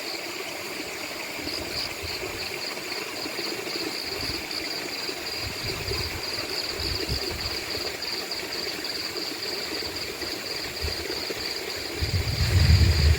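Rainforest ambience: a steady, high-pitched insect chorus over the rush of a flowing stream. Low rumbles come in near the end.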